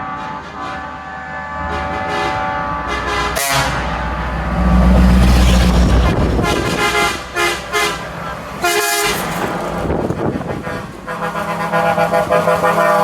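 Truck horns sounding, several steady tones at once and held for seconds at a time. Heavy truck engines run loud about four to six seconds in.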